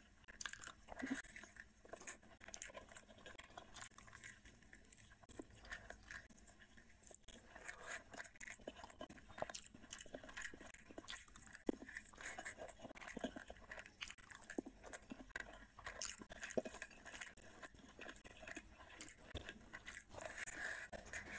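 A person chewing mouthfuls of rice and curry eaten by hand: an irregular run of small clicks and crunches.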